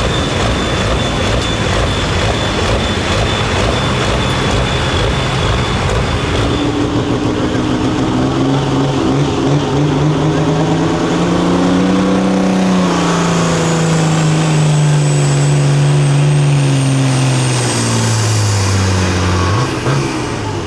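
Pulling vehicle's engine running hard under load. Its pitch climbs for several seconds, then sags slowly and drops sharply near the end as it comes off the power. A thin high whine rises and falls alongside it.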